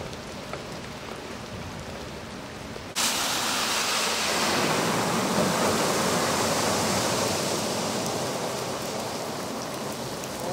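Steady hiss of heavy rain; about three seconds in it gives way suddenly to a much louder rush of water as a car drives through a flooded street, throwing up spray, slowly easing off.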